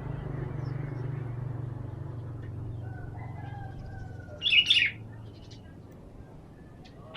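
Sooty-headed bulbul giving a short burst of chattering call notes about four and a half seconds in, preceded by a few faint whistled notes. A low hum fades away over the first few seconds.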